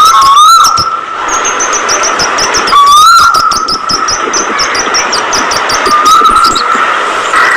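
Caged budgerigars chirping and chattering, with trains of fast high chirps and a short rising whistle that recurs every few seconds.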